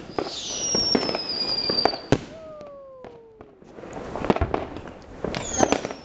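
Fireworks going off in a dense volley of bangs and crackling. Long falling whistles sound about half a second in and again near the end, with a lower falling whistle two to three seconds in. The bangs ease briefly in the middle, then build again.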